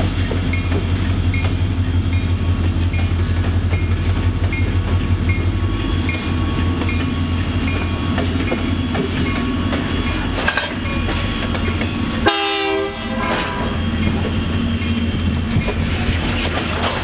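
Several diesel-electric freight locomotives running past with a steady low engine hum and wheels rumbling on the rails. A short horn blast sounds about twelve seconds in.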